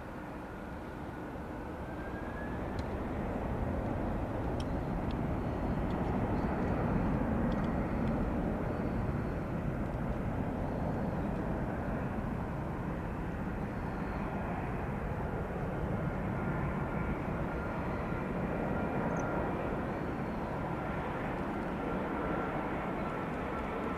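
A Boeing 787-8 Dreamliner's Rolls-Royce Trent 1000 jet engines roaring as it passes. The noise builds over the first several seconds and then holds, with a thin steady whine above it.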